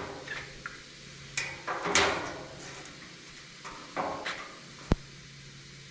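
Knocks and clatters of things being handled and set down in a shop, about half a dozen short hits with a sharp click near the end, over a low steady hum.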